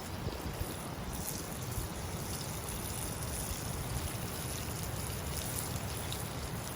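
A stream flowing steadily.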